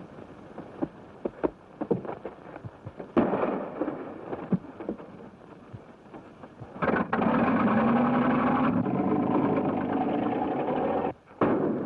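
Vintage car engine running and pulling away: a loud steady noise with a rising hum from about seven seconds in that cuts off suddenly near the end. Before it, scattered knocks and a sharper bang about three seconds in.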